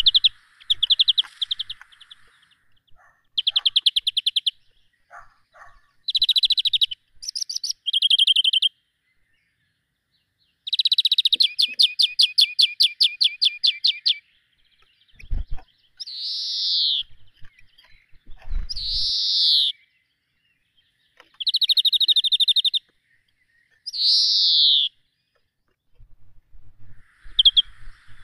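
A songbird singing in loud phrases of rapid trills, each a second or two long, broken by short pauses. Partway through come several longer notes that fall in pitch.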